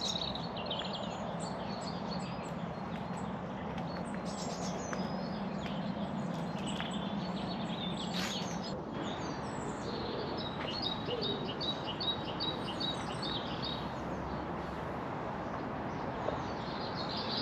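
Small songbirds calling and singing together in short, high calls. A little past the middle comes a quick run of repeated notes, about four a second. A steady low hum lies underneath.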